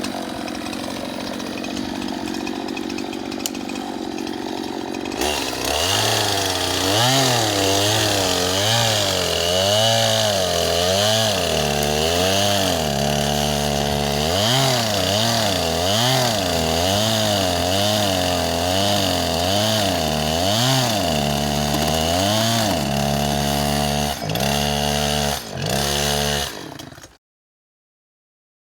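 Two-stroke chainsaw cutting a dead tree, running steadily at first, then louder from about five seconds in, its engine speed rising and falling about once a second as the chain bogs in the cut. The sound cuts off suddenly near the end.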